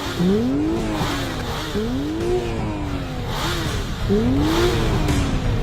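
Engine revved repeatedly while held at the start line of a drag race: three throttle blips, each rising in pitch and falling back over about a second.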